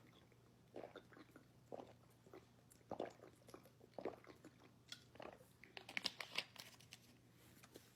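Crunching bites and chewing of crispy fried chicken, a crisp crunch about once a second with a quicker flurry of crunches near the end.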